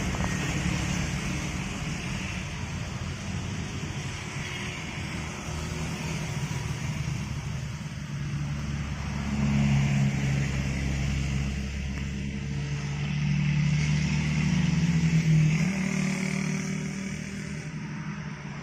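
Heavy truck diesel engines pulling up a steep grade under load, growing louder about ten seconds in and again about fifteen seconds in, the engine note rising slightly near the second swell.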